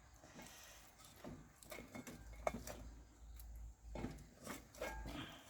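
Scattered light clicks and knocks, about half a dozen, over a low rumble.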